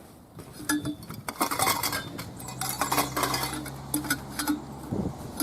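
Hard parts of a dismantled Kayacat knocking and clinking against each other as they are laid into the bottom of its storage bag, in a run of short irregular clatters. A low steady hum sounds underneath through the middle of it.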